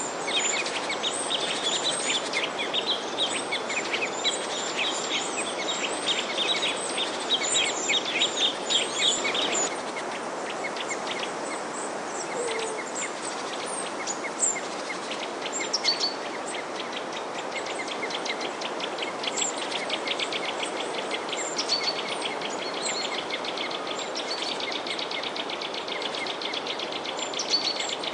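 A chorus of small songbirds chirping: dense, overlapping high chirps for about the first ten seconds, then fewer, more scattered calls, over a steady background hiss.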